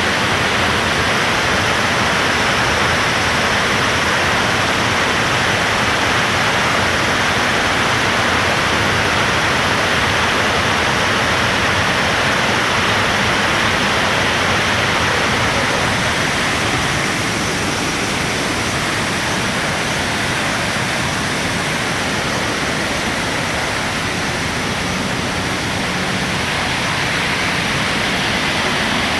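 Steady, dense rush of a large waterfall, the Tsuta-no-Fuchi falls, running with an abundant flow swollen by a typhoon the day before.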